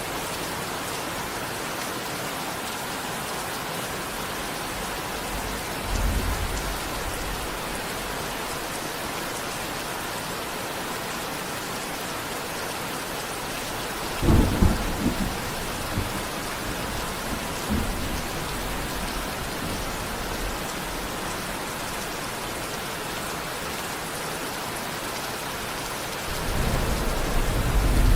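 Steady heavy rain, with thunder rumbling three times: a short roll about six seconds in, a sharper and louder clap about halfway, and a longer, building rumble near the end.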